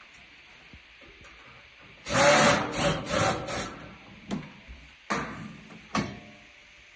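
Scraping and rubbing strokes as parts of a storage heater are handled and worked loose, a run of about five strokes two seconds in, then a few sharp knocks and clatters.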